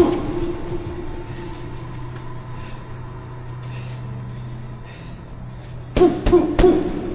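Three quick thuds of punches landing, about six seconds in, over a steady low hum.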